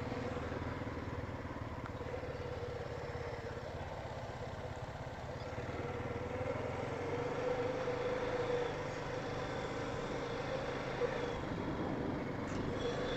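Four-wheeler (ATV) engine running steadily at low revs, an even idle hum with no revving.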